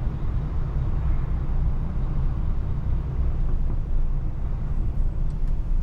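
Diesel engine of an HGV lorry idling steadily, heard from inside the cab while queuing in traffic.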